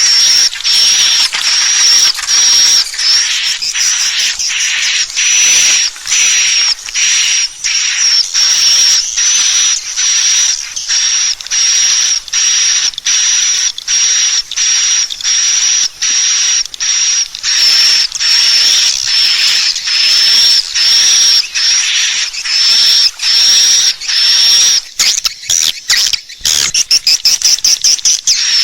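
Swiftlet lure call: a recorded swiftlet twitter played on a loop, high buzzy chirps repeating about twice a second, used to call swiftlets into a nesting house. About three-quarters of the way through the chirps break into a quicker, choppier run.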